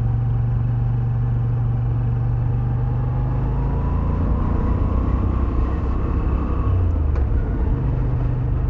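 Moto Guzzi V7 850's air-cooled transverse V-twin engine and exhaust running under way. The engine note drops about four seconds in and picks up again near the end, with a faint rising whine above it.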